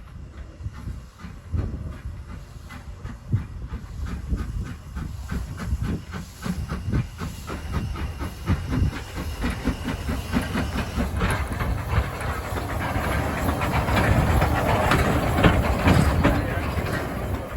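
Steam locomotive working on the railway, its exhaust beating in a steady rhythm with a hiss of steam, growing louder toward the end as it comes closer.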